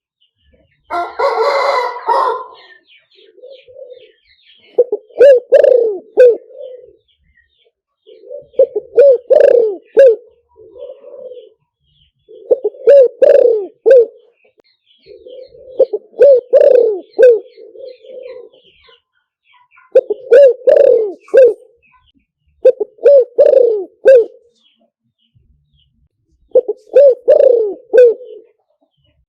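Spotted dove cooing in repeated phrases, one about every three to four seconds, each a quick run of short coos ending in a longer one. This is a decoy call for luring wild spotted doves. About a second in there is a brief, harsher burst of sound.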